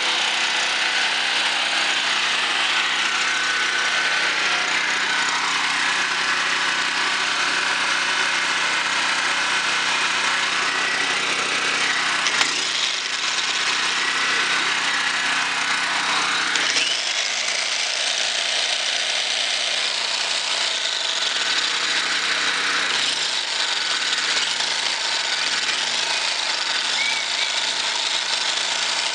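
Brand-new Champion portable gasoline generator's single-cylinder engine running steadily just after its first start, its tone shifting briefly about twelve seconds in and again about seventeen seconds in.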